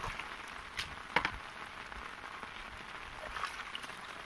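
Steady rain falling on shallow floodwater. A couple of short, sharp splashes come about a second in.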